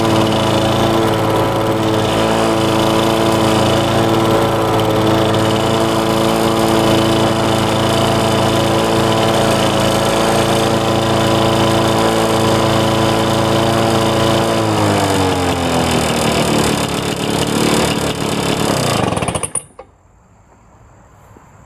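2004 Lawn-Boy 10550's DuraForce two-stroke engine running at a steady speed. About fifteen seconds in, its pitch falls as it winds down, and it stops near the end.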